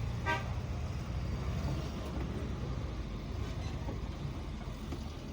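Busy street ambience: a steady low rumble of vehicle traffic, with a brief pitched toot about a third of a second in.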